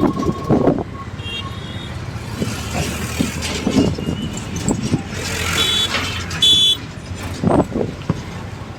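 Road traffic running, with two short vehicle horn toots a little after halfway through and a shorter one near the start.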